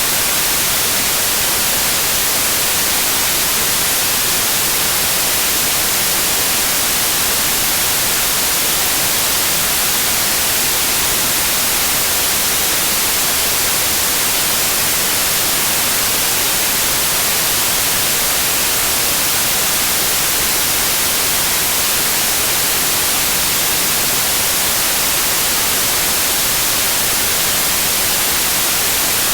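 Steady white noise: an even, unchanging hiss, strongest in the high frequencies, with no breaks or events.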